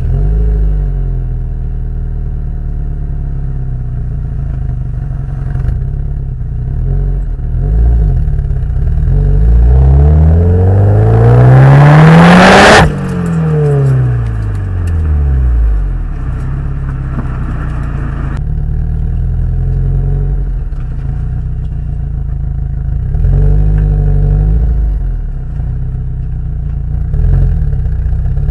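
Subaru Impreza WRX STI's turbocharged flat-four exhaust through an STI Genome rear muffler, running steadily. It then revs up under full throttle in first gear for about five seconds, cuts off sharply at the top and falls back to idle. Near the end come two short blips of the throttle.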